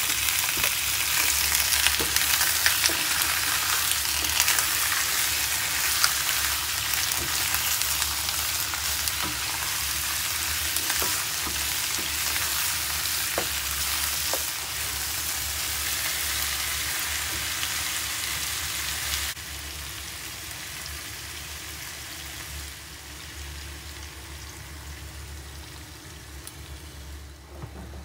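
Chicken pieces frying with onions and garlic in a hot wok: a loud, steady sizzle with occasional light clicks as the mixture is stirred. The sizzle drops suddenly about two-thirds of the way through and grows fainter toward the end.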